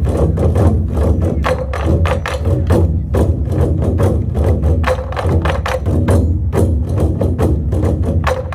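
Korean buk drum ensemble playing a fast, driving rhythm: many sharp strokes a second over a steady low rumble.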